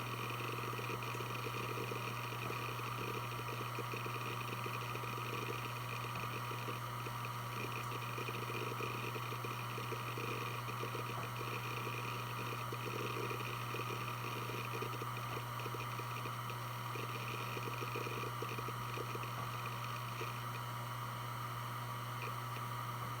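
Western Digital WD1600AAJS 3.5-inch 7200 RPM hard drive spinning with a steady hum, its heads seeking in a rapid, irregular patter of soft clicks under a file-extraction workload.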